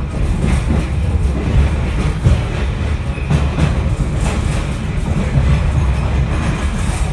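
Rail car rolling along the track: a steady low rumble with irregular clacks from the wheels.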